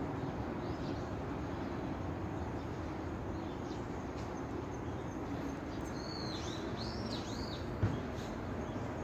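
A few quick arching bird chirps about two-thirds of the way through, over a steady hum of distant city traffic. A single soft thump comes near the end.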